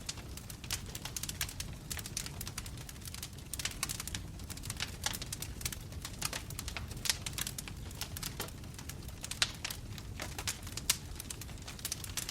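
Wood fire burning in a fireplace, logs crackling with many sharp, irregular pops over a steady low rumble of the flames, with a few louder pops about seven, nine and eleven seconds in.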